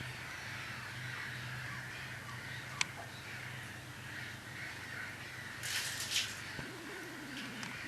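Wild birds calling over a steady low background hum. Two harsh, cawing calls come about three-quarters of the way through, followed by a short falling tone.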